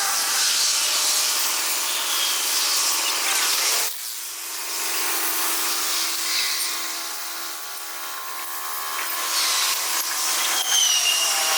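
Freight train rolling past, steel wheels grinding and rubbing on the rails, with a brief high wheel squeal near the end.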